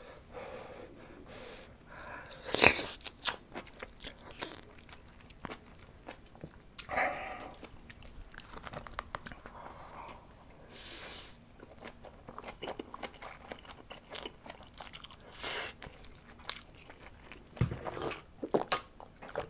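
Close-miked eating: chewing and biting saucy braised chicken and kimchi with rice, with many short wet mouth clicks and smacks. Near the end come a few sips from a cup.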